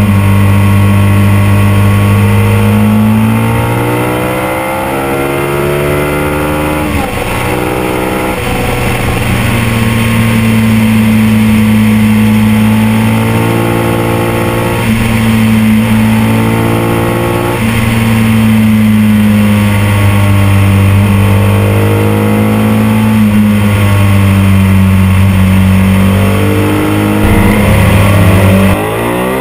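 Ducati 851's 90-degree V-twin engine running hard under way, heard from an onboard camera, with wind rushing over the microphone. Its pitch shifts about seven seconds in and again near the end.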